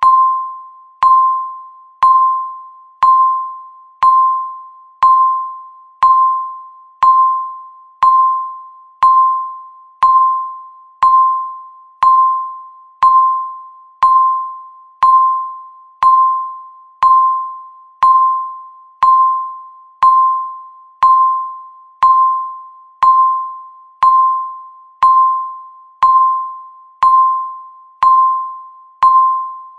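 Electronic countdown timer beep sounding once a second: a short tone of one pitch with a sharp start that fades away before the next beep, repeating evenly.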